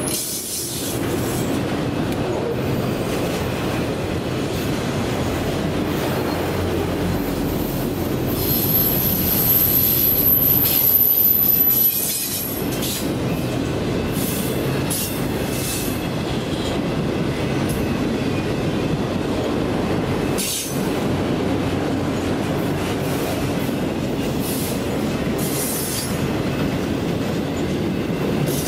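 Freight train of autorack cars rolling past: a steady rumble of steel wheels on rail, with a thin, high wheel squeal from about 8 to 12 seconds in.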